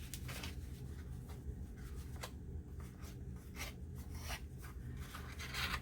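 Sewing thread tugged through a paper journal page, with the paper rubbing and rustling: a string of short, dry rasps at uneven intervals.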